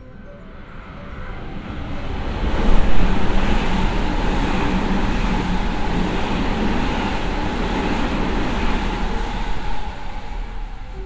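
Electric train on the JR Hanwa Line running past the station platform: a rushing rumble of wheels on rail swells over about two seconds, holds loud for several seconds, then eases off near the end.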